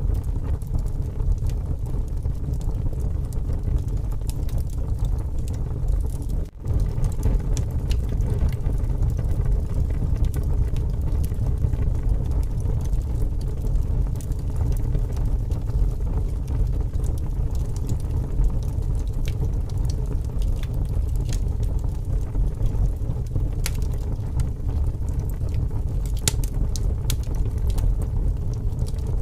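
Wood fire crackling with scattered sharp pops over a heavy, steady rumble of strong wind. The sound drops out for a moment about six and a half seconds in.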